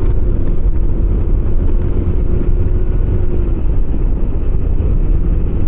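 Small motorcycle riding at steady speed over a rough stretch of road, its engine note holding steady, easing off about two thirds in and rising again near the end, under heavy wind and road rumble on the microphone.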